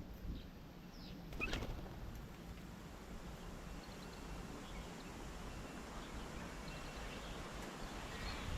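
Faint birds chirping outdoors, with one short, sharper call about a second and a half in, over a steady low background noise.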